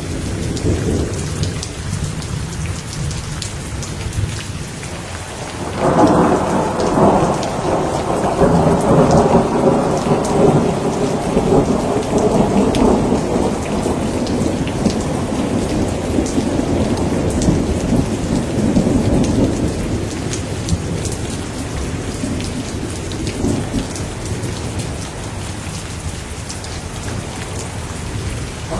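Thunderstorm: steady heavy rain with a clap of thunder about six seconds in that rolls and rumbles for around fifteen seconds before fading back into the rain.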